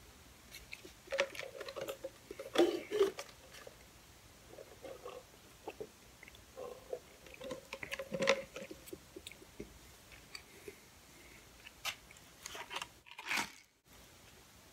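Close-miked chewing of crunchy fried fast food: clusters of crunching bites with short pauses between.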